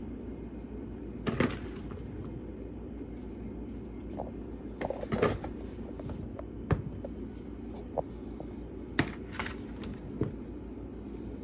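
Potato pieces being placed by hand into a baking bowl: scattered light knocks and scrapes, about a dozen spread out, with a small cluster near the middle. A steady low hum runs underneath.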